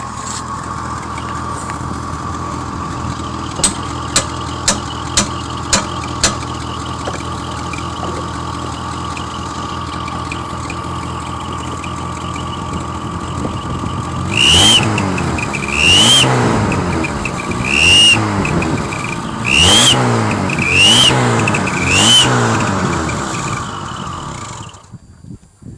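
VAZ 2110 engine idling with a steady high tone, then revved six times in quick blips, each one carrying a whistle that rises and falls with the revs from a homemade turbo whistle. A few sharp clicks come during the idle, and the engine drops away near the end.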